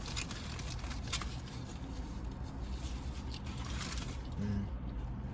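Close-up eating and food-handling noises: a few short crinkles and clicks of a food wrapper over a low steady hum, with a brief murmured voice near the end.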